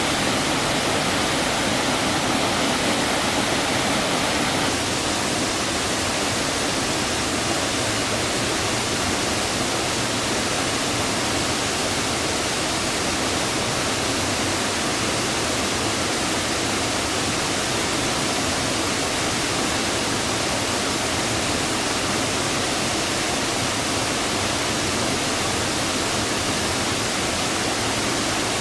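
Steady rushing of water from a highland waterfall, an even roar with no breaks, easing slightly after about five seconds.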